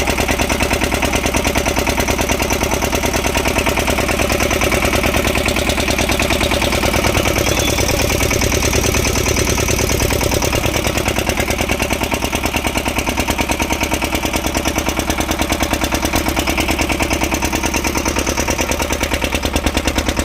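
14 HP Eicher single-cylinder diesel engine of a mini hydraulic boring machine running steadily, with a fast, even firing beat.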